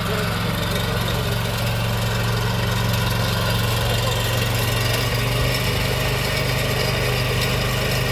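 Small engine of a Maxxi PF48 rice transplanter running steadily at an even speed.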